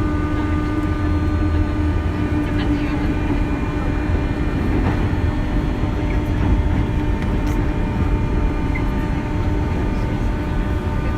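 Running sound inside a 201 series electric commuter train at speed: a steady rumble of wheels on rail under a set of steady electrical whine tones from the traction equipment.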